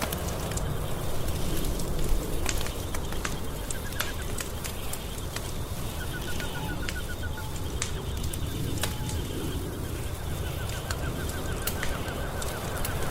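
Wood fire crackling in a fireplace: scattered sharp pops and snaps over a steady low roar. A faint, rapid trill comes and goes several times.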